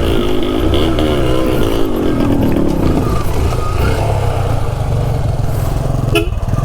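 Yamaha RX two-stroke single-cylinder motorcycle engine running under load on a rough trail, its pitch rising and falling a few times in the first few seconds as the throttle is worked. There is one sharp knock about six seconds in.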